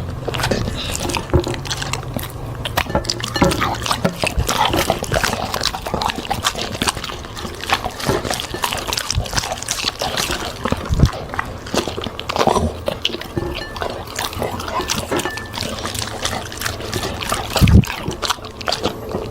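A dog eating fruit and vegetables: continuous chewing and mouth smacking, a steady irregular run of quick clicks.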